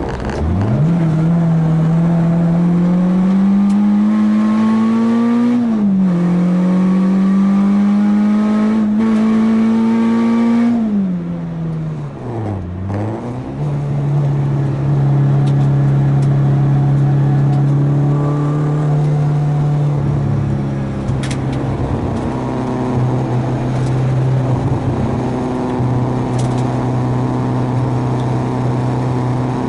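Renault Clio 2 RS four-cylinder engine at full throttle on track, heard from onboard. The revs climb and drop sharply twice, about 6 and 11 seconds in, as it changes up. Around 12 seconds the revs fall away with a couple of quick rises, then hold nearly steady for the rest of the stretch.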